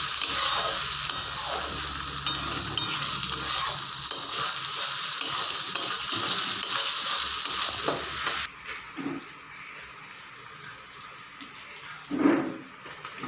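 Chopped garlic and spices sizzling in oil in a kadai while a spatula scrapes and stirs through them in quick strokes. The sizzle drops away about two-thirds of the way through, and near the end chopped tomato is tipped into the pan with a short, louder splat.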